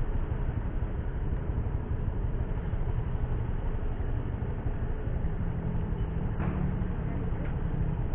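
Motorcycle engine running while riding, with steady road and wind noise on the rider's microphone; a steady engine tone comes up about five seconds in.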